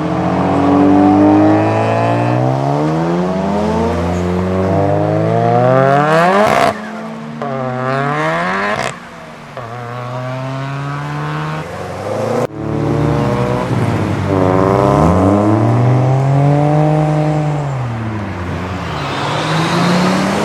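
Modified cars' engines revving and accelerating hard as they drive off, the pitch climbing in long sweeps and dropping back again and again. The sound cuts off abruptly twice and restarts with another car.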